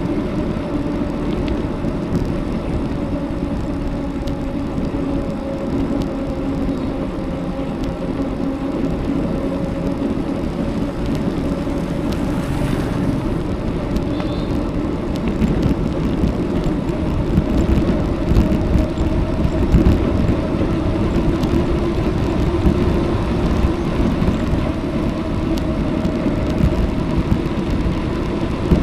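Steady rolling noise of a bicycle ride: wind buffeting the action camera's microphone and tyres running on the road, with a low steady hum and a rougher patch in the second half.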